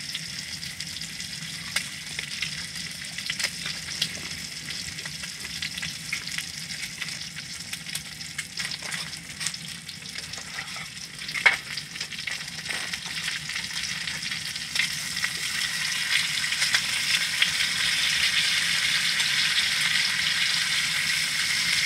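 Pork belly sizzling and crackling as it fries, the hiss growing louder in the last third. A single sharp click sounds about halfway through.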